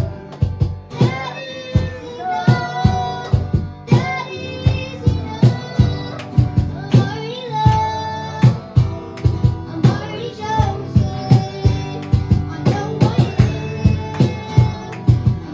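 Live worship band music: a singing voice over instruments with a steady beat.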